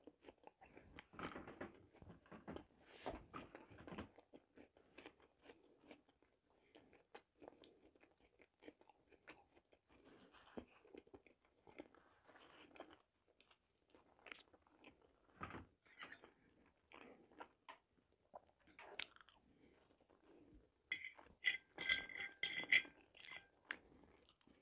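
Close-miked chewing of a mouthful of boiled potato and herring: faint wet mouth and lip noises with small clicks. Near the end comes a louder run of clinks from a fork against china plates.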